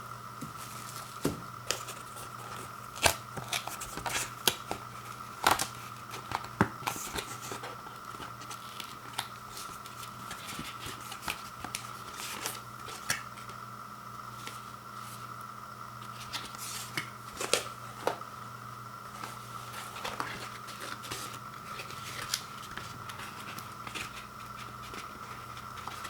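Packaging of a frozen microwave pizza being handled and opened by hand: scattered taps, clicks and light rustling and crinkling of cardboard and plastic, over a steady electrical hum.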